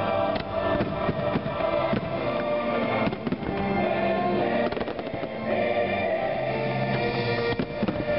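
Fireworks bursting repeatedly as sharp bangs and pops over loud, sustained show music.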